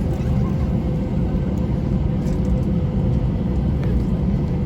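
Steady low rumble of jet airliner cabin noise: engine and airflow drone heard from a seat in the cabin, even throughout with a faint steady hum above it.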